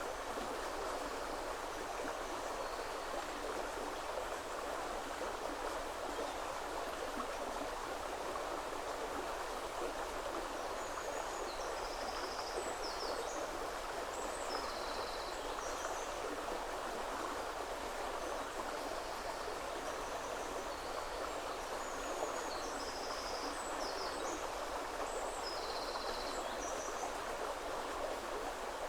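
Steady rush of a shallow river flowing over stones. From about a third of the way in, a small songbird sings short, high phrases over it several times.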